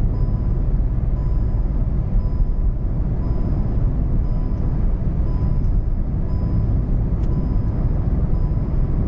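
Tyre and wind noise heard inside the cabin of a Hyundai Venue at highway speed, a steady low rumble, under the car's overspeed warning chime beeping over and over. The chime is the speed alert for driving above 100 to 120 km/h.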